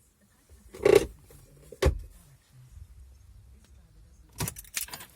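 Handling clicks and knocks inside a car: a loud knock about a second in, a sharp click near two seconds, and a quick run of clicks near the end.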